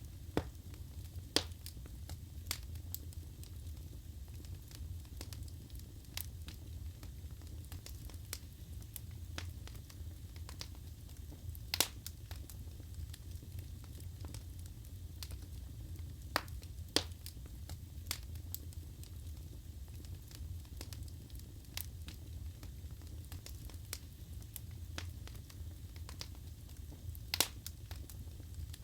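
Wood fire burning in a fireplace: a low steady rumble of flames with irregular crackles and sharp pops of burning logs, the loudest pops about a second in, near the middle and near the end.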